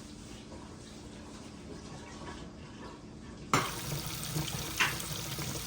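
Water running steadily from a kitchen tap. About three and a half seconds in, a few sharp knocks of dishes or utensils join it.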